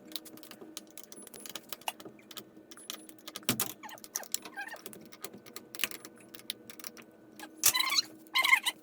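Light metallic clinks and rattles of hardware and tools being handled. Near the end come a few louder, short, high squeaks.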